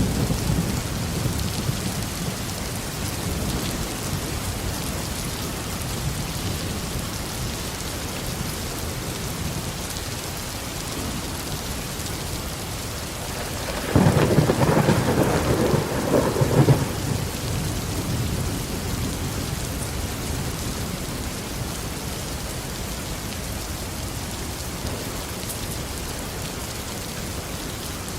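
Steady heavy tropical rain falling, with a sudden loud crack of thunder about halfway through that rolls for about three seconds before the rain alone carries on.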